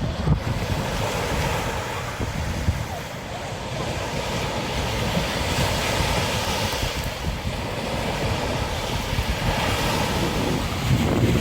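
Sea surf washing and breaking, with wind buffeting the microphone in heavy low rumbles.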